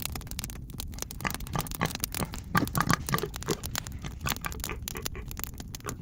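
Dense crackling and scraping, like dry leaves and twigs on a forest floor being disturbed, with a few louder, fuller sounds about halfway through.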